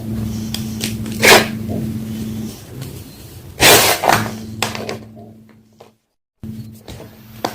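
Homemade gym chalk block being crushed: two loud crunches, about a second in and near the middle, then a few smaller crackles. A steady low hum runs underneath.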